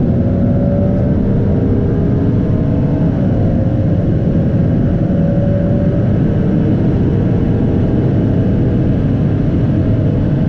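Ferrari 296 GTB's twin-turbo V6 running through a Novitec exhaust, a steady engine note with a brief drop in pitch about three seconds in, then a slow climb.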